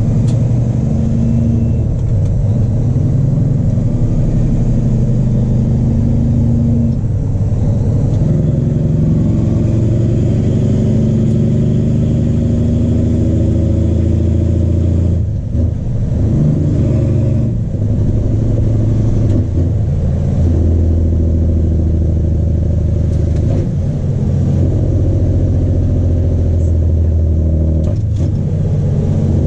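Straight-piped Cummins ISX diesel of a Peterbilt 379 tow truck pulling under load. Its engine note climbs and drops back several times, with short lulls about halfway through.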